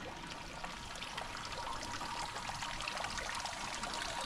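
Rain falling steadily, with dense quick patter and trickling water.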